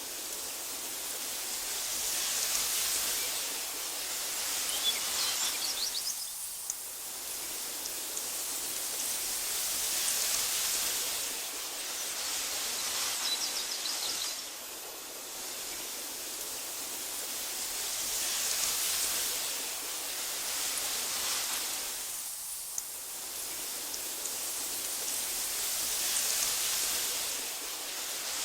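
Wind blowing through tall meadow grass, a steady hiss that swells and eases in slow gusts every several seconds. A few faint high chirps come through about five seconds in and again near the middle.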